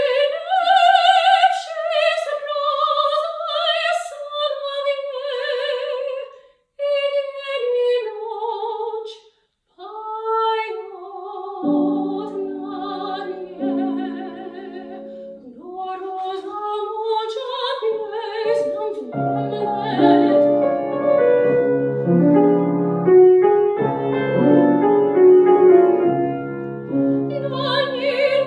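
Classical soprano singing with vibrato, unaccompanied at first with two brief pauses. Piano accompaniment enters about twelve seconds in and grows fuller and louder from about two-thirds of the way through.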